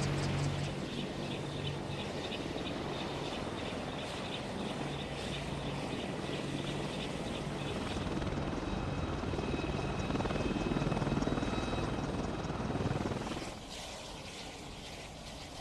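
AH-64 Apache attack helicopter running, its rotor giving a fast, even chop over the turbine noise; the sound drops off noticeably near the end.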